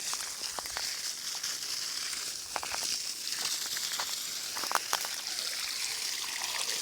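Water running out of a freshly started supply line in a steady hissing stream, splashing with scattered small drips and spatters.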